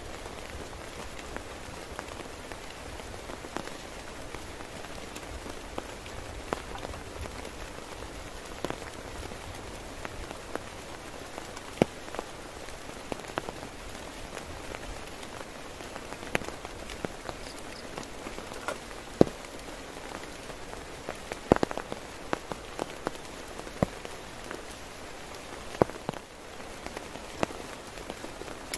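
Heavy rain on a tent: a steady hiss of rainfall with scattered sharp, louder drops striking the fabric, bunched most thickly in the second half.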